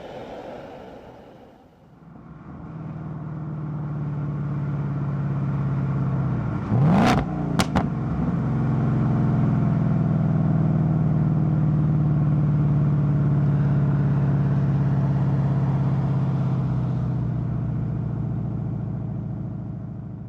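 Ford Mustang Bullitt's V8 running under load, its note building over the first few seconds, then holding a steady pitch before fading near the end. A sharp, loud burst cuts through about seven seconds in.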